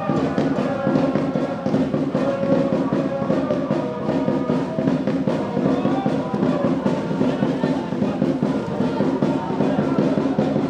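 Drums beating fast and without pause, with a wavering melody carried over them, like a football supporters' band in the stands.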